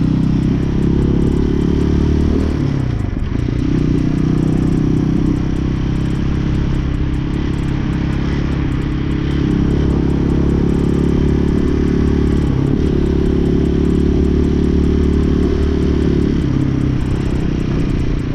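Hawk 250cc motorcycle engine running while being ridden, its note dropping and climbing again with gear changes about three seconds in and a couple more times later, over road and wind noise.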